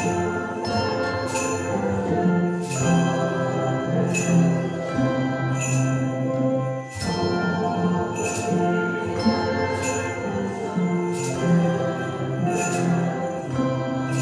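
Handbell choir playing a piece: struck bell notes ring on and overlap, with new chords struck about every second and a half over sustained low bells.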